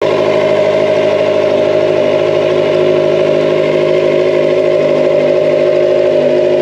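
Kawasaki ZX-25R's small inline-four engine and exhaust running at a steady, even pitch.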